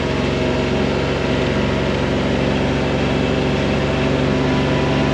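Vehicle engine running steadily at constant speed, its pitch unchanging.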